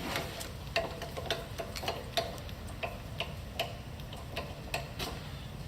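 Irregular light metallic clicks and ticks, about two or three a second, some with a brief ring, from hands working parts of a vertical milling machine's table.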